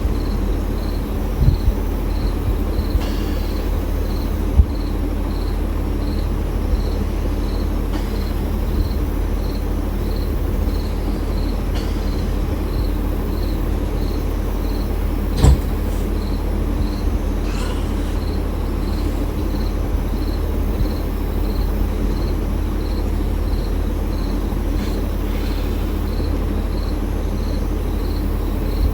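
A steady low rumble with an insect chirping in an even pulse, a bit more than once a second, over it. A few short sharp knocks come through, the loudest about halfway.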